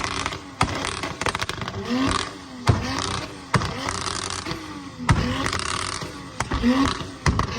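Car engines revving on two-step launch limiters, with many sharp pops and bangs from the exhausts.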